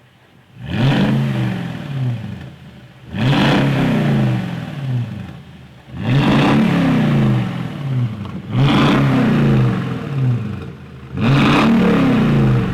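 Toyota Tundra's 5.7-litre V8 revved through a VR Performance valvetronic cat-back exhaust, five blips of the throttle about two and a half seconds apart, each climbing quickly and falling back toward idle.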